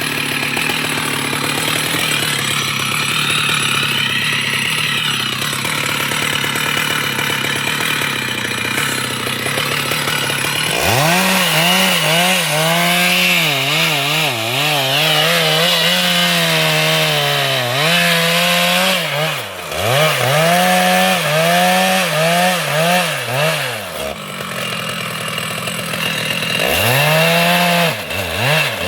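Two-stroke chainsaw running in wood. It holds a steadier, lower note at first. About a third of the way in it revs high, and its pitch sags and recovers again and again as the chain bites and is eased off.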